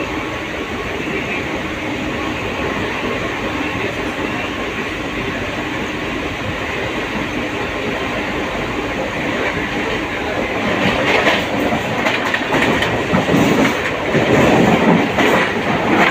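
Mumbai local electric train running, heard from on board: a steady rumble of wheels on the track. About ten seconds in it grows louder and rougher, with uneven clattering.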